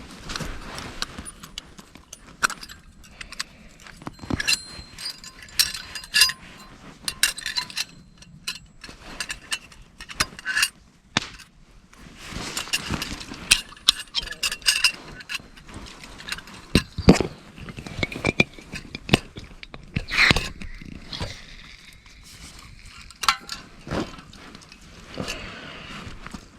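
Handling noises: a run of separate clinks, knocks and scrapes of small hard objects, with short metallic rings among them.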